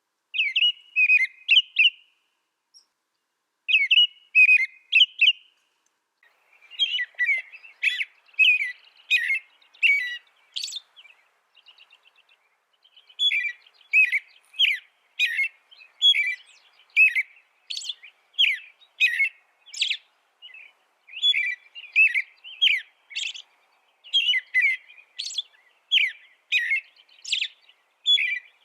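Small finch singing: quick strings of short, high chirping notes, broken by a pause about two seconds in, then running on almost without a stop.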